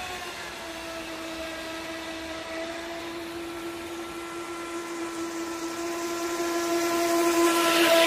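Feilun FT011 RC speedboat's brushless electric motor whining at a steady pitch, growing louder toward the end as the boat runs close, with a hiss building up near its loudest point.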